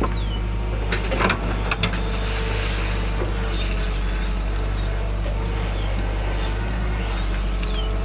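Excavator's diesel engine running steadily, with a few sharp knocks about a second in.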